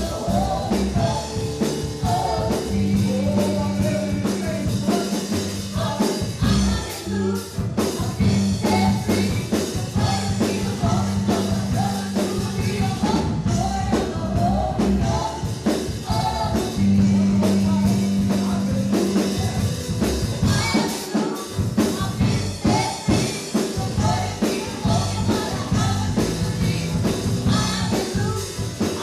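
Live worship band playing a gospel praise song, with drums, sustained bass and voices singing the melody.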